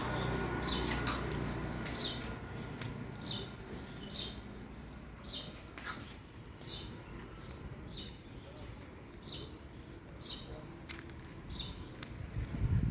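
A bird repeating a short, high chirp about once a second over a faint low background rumble, with a few faint clicks.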